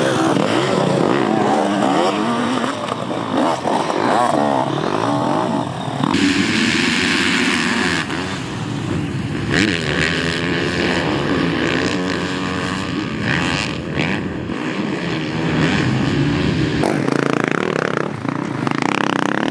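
Dirt bike engines revving and running, their pitch rising and falling as the throttle opens and closes, with the sound changing abruptly several times.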